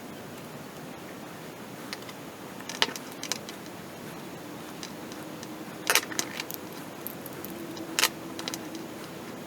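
About half a dozen sharp clicks and clacks of small hard parts being handled, the loudest about six and eight seconds in, over a steady hiss.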